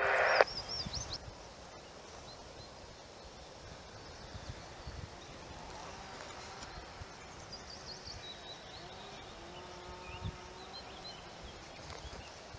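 Quiet outdoor ambience with scattered bird calls: short high chirps and warbling notes over a faint steady background hiss.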